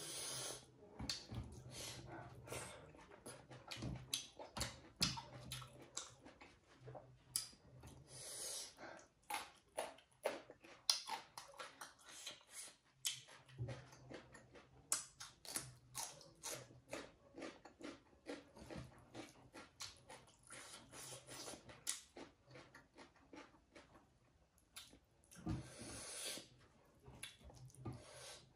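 Close-miked chewing of a mouthful of rice and pork, with many wet mouth clicks and lip smacks, and a few breaths through the nose.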